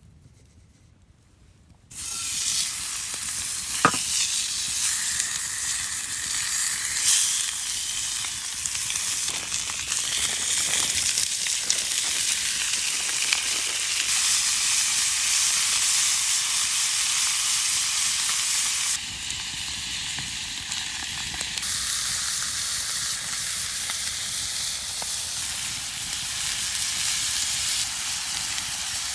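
Food sizzling steadily in a hot pan over a camp fire or stove, starting suddenly about two seconds in and easing slightly near two-thirds of the way through, with a single sharp click early on.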